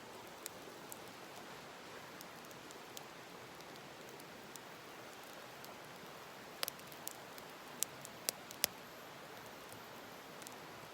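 Wood fire crackling over a steady hiss, with a cluster of sharp pops about two-thirds of the way through.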